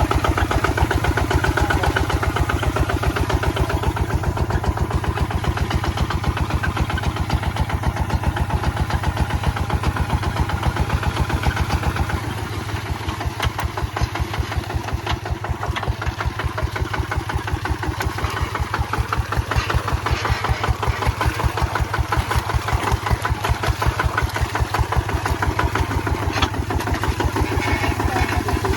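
Kubota ZT155 two-wheel tractor's single-cylinder diesel engine running under work with an even beat of firing strokes. Its level drops about twelve seconds in, then slowly builds back up.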